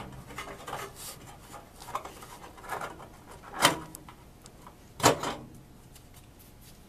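Scattered knocks and scrapes of objects being handled, with two louder knocks, one about three and a half seconds in and one about five seconds in.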